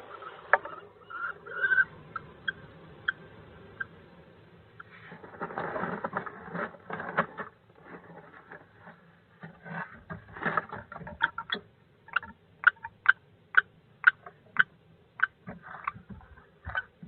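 Birds moving about in a wooden nest box: scuffling and scratching, then a run of short, sharp calls or taps about two a second in the second half.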